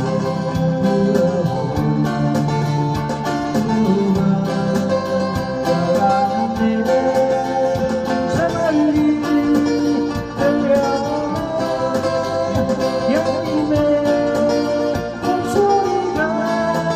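Guitar music: a melody of long held notes with small pitch bends over steady plucked accompaniment.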